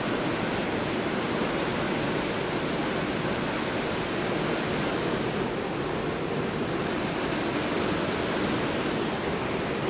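Steady rush of water churning in a canal lock chamber as it fills.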